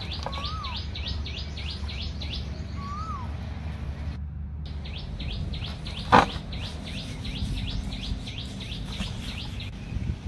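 Songbirds calling: one bird repeats a fast series of short, high descending notes, and another gives a short rising-then-falling whistle twice in the first few seconds. A single sharp knock sounds about six seconds in, over a steady low hum.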